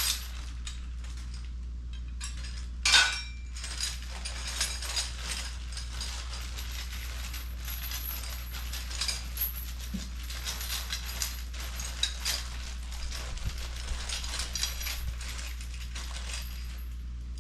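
Small metal clicks and clinks of hand tools and hardware being handled while a jack is assembled, with one louder clank about three seconds in. A steady low hum runs underneath.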